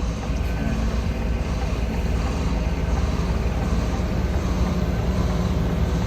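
HGV lorry's diesel engine running steadily with a low, even note.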